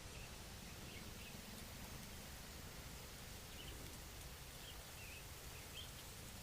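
Faint scattered short, high bird chirps over a steady low background noise.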